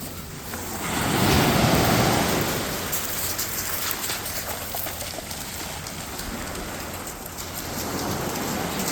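Ocean surf washing onto the beach, one wave swelling and breaking about a second in, then a steady wash.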